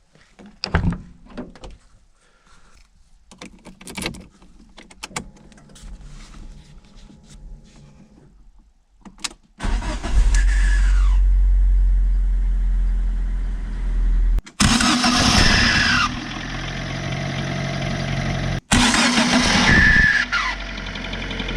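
A few faint clicks and knocks, then a Fiat Seicento engine is started three times: each start brings a loud, noisy starter-motor whine that falls in pitch as the engine catches, and the engine then keeps running. The noisy starter is the fault, which the owner cures by cleaning the starter motor.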